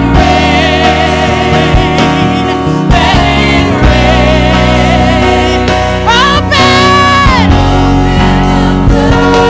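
Gospel worship song with vocals over keyboard and bass, a singer's line sliding up and holding a long note about six seconds in.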